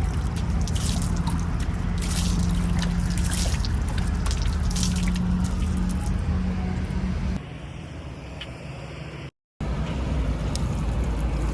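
Heavy diesel machinery running steadily, with a splashy, pouring noise from wet mud being handled over the first seven seconds. The sound then drops lower, cuts out completely for a moment, and the engine comes back.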